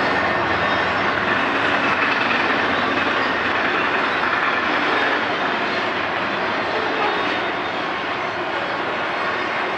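Intermodal freight train rolling past: a steady roar of wheels and cars with faint steady tones above it, easing a little near the end.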